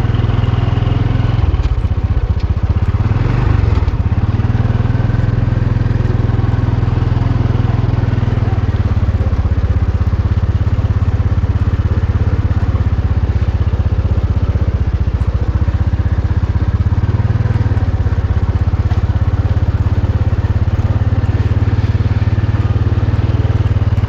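A vehicle engine running steadily on the move. Its low note shifts about two seconds in and again about eight seconds in.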